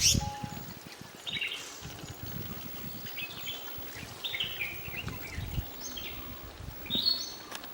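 Wild birds singing, short chirped and whistled phrases repeated every second or so, over a low uneven rumble. A sharp click sounds right at the start.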